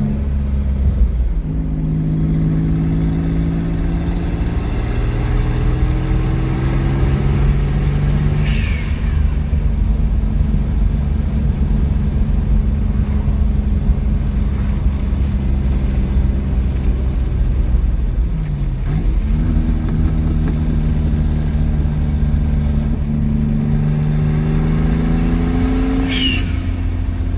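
Twin-turbocharged Ford Mustang V6 running hard under load. Its engine note climbs slowly in pitch and drops back three times: about 8 seconds in, around 19 seconds and near the end. The first and last drops each come with a short high falling whistle.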